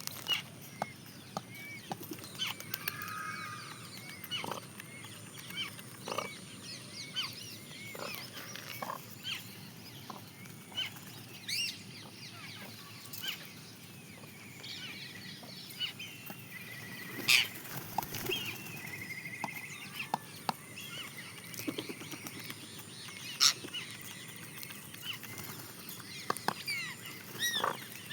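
Birds chirping: many short, scattered calls, with a few sharp clicks, the loudest about 17 and 23 seconds in.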